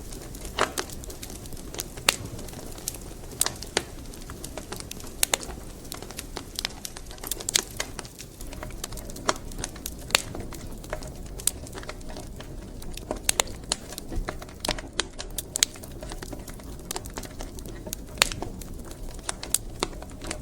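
Burning firewood crackling, with irregular sharp pops and snaps over a low, steady rumble of the fire.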